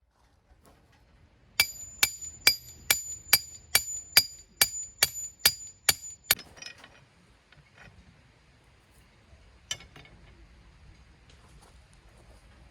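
A hammer striking a steel tent peg about a dozen times in an even rhythm, roughly two and a half blows a second, each blow ringing metallically; the peg is being driven into the ground. A single softer knock follows a few seconds later.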